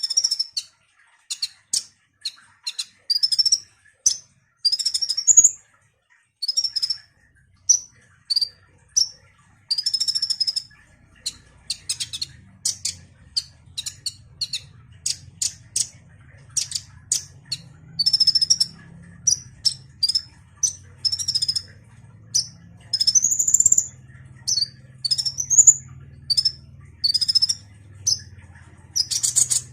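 Sunbird (the Indonesian bird-keepers' 'kolibri') singing: a fast, continuous run of short, high chirps and quick rising and falling slurred notes with brief gaps between phrases.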